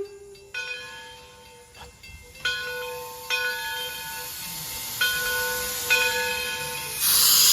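Steam locomotive's bell ringing in separate strokes, each ring dying away, and a loud hiss of steam starting near the end.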